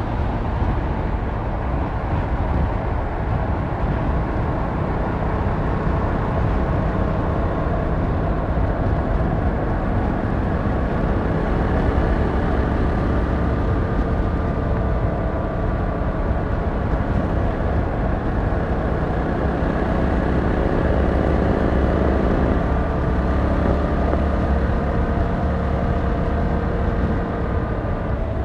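Yamaha MT-07's 689cc parallel-twin engine and exhaust heard from the rider's seat while cruising, the engine note rising and falling gently with the throttle and changing pitch about two-thirds of the way through.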